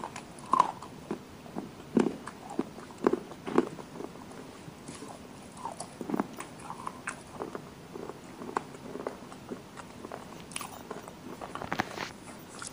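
Close-up biting and chewing of slate pencil pieces in red clay paste, with irregular crisp crunches.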